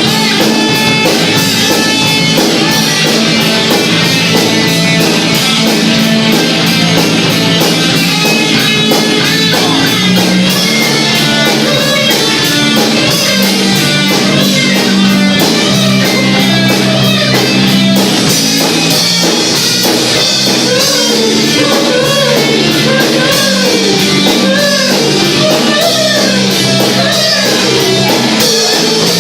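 Loud rock music with guitar and drum kit playing continuously; a wavering melody line comes in about two-thirds of the way through.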